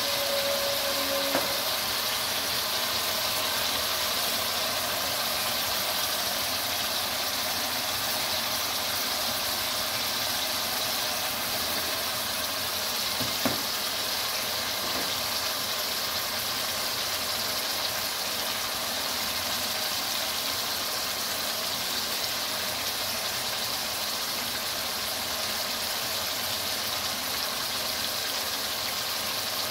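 Chicken and potatoes sizzling steadily in oily masala in an aluminium wok over a gas flame, with one light knock about halfway through.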